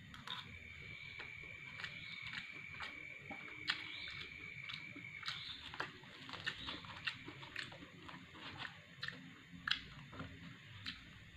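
A man chewing rice and side dishes with his mouth open, with many irregular small wet clicks and smacks. A faint steady high whine runs from about half a second in to about five seconds.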